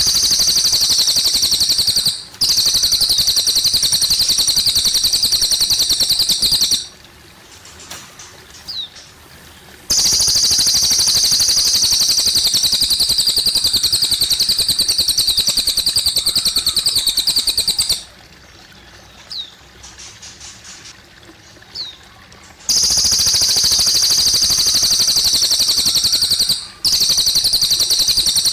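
Cililin songbird singing long, very rapid high trills of several seconds each. The song breaks off for a few seconds about 7 s in and again about 18 s in, leaving faint chirps over trickling water.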